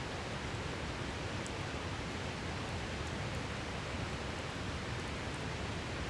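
Steady rushing of a mountain river, with faint, sparse crackles from a wood campfire.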